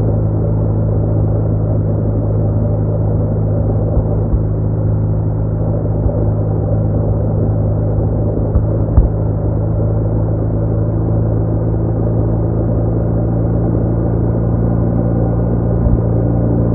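BMW R1200R boxer-twin motorcycle engine running steadily at cruising speed, a constant low drone with the rush of riding behind it. A single brief knock comes about nine seconds in.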